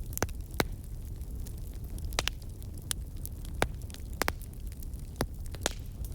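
Wood campfire crackling: about ten sharp, irregular pops and snaps over a steady low background noise of the burning fire.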